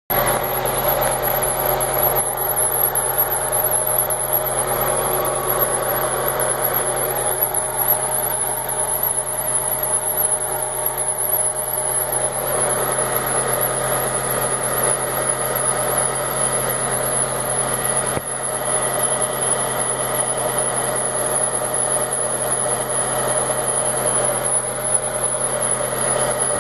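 Fiat Marea 2.0 20-valve five-cylinder engine running steadily at idle with a strange noise, which the owner takes for the water pump belt, since the engine overheats quickly.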